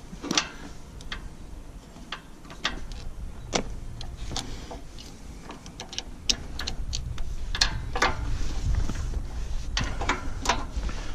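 Irregular clicks, clinks and knocks of hand work on the hydraulic hose fittings and metal parts of a loader bucket, with a low rumble underneath.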